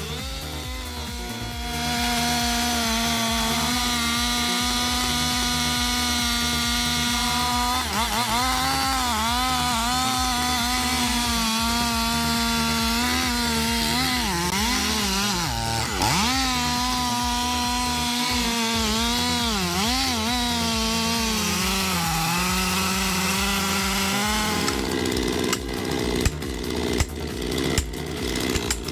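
Stihl MS 661 chainsaw running at high revs and cutting. Its note dips and recovers again and again as the bar bogs under load in the wood. Near the end the saw's note drops away and a series of sharp knocks and cracks follows.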